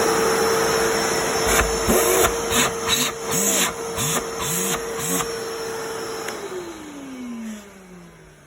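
Construction (shop) vacuum cleaner motor running at full speed with a steady high whine and rushing suction noise, which surges unevenly for a few seconds. About six seconds in it is switched off and the whine falls in pitch as the motor spins down.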